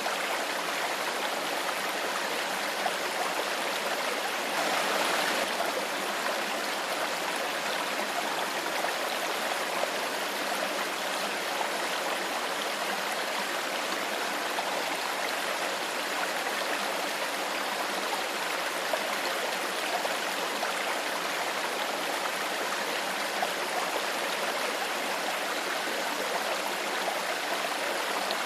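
A shallow stream of clear water flowing steadily, with small gurgles and splashes, swelling briefly about five seconds in.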